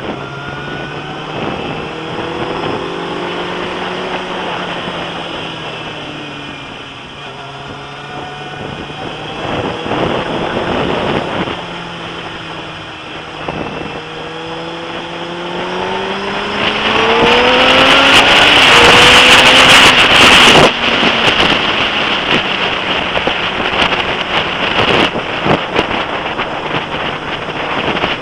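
Suzuki GSX-R sports motorcycle engine under way, its pitch rising repeatedly as it accelerates and dropping between gear changes. Heavy wind rushes over the microphone, building to its loudest about two-thirds of the way in, then cutting off abruptly.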